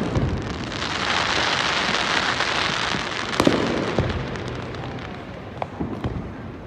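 Aerial fireworks bursting overhead: a dense crackling hiss for the first few seconds, then a sharp bang about halfway through, another shortly after, and a few smaller pops near the end.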